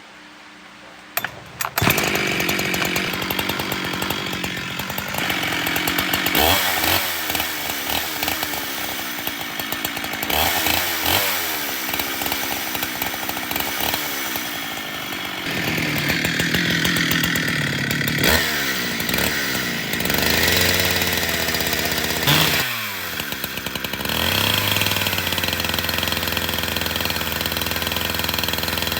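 Two-stroke chainsaw, just repaired after refusing to start, catching and starting about two seconds in, then running with the throttle opened and closed several times, rising and falling in pitch, before settling to a steadier run near the end.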